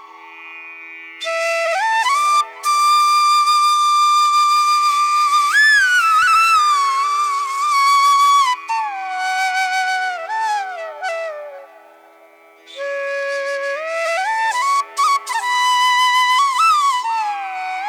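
Background music: a solo bamboo-flute-like melody with sliding, bending notes over a steady held drone. It pauses briefly about a second in and again around two-thirds of the way through.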